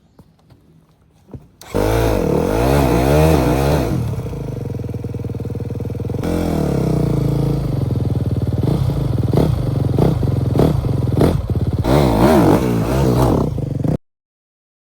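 Dirt bike engine revving, its pitch rising and falling repeatedly, starting suddenly after a short quiet moment and cutting off abruptly near the end.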